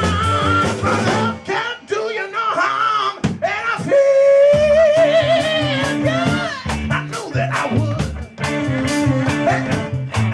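Live band playing, with a bass line and drums under it and a long, wavering held note about four seconds in.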